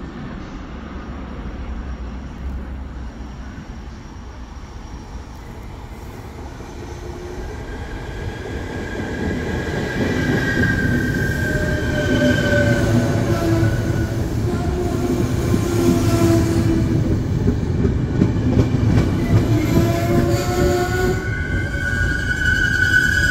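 A train coming into and through the station. Its rumble grows over the first eight to ten seconds, then stays loud, with wavering high squealing tones over it.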